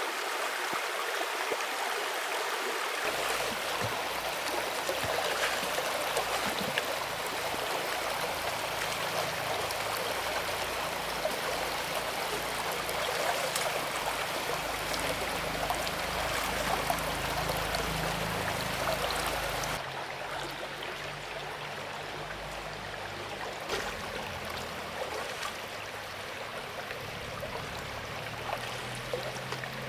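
River water flowing and rushing steadily, with scattered small splashes and clicks. About two-thirds of the way through it suddenly becomes quieter and duller.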